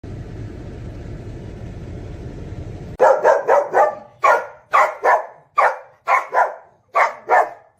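A steady rushing noise for about three seconds, then a dog barking rapidly: about a dozen short, sharp barks, often in quick pairs.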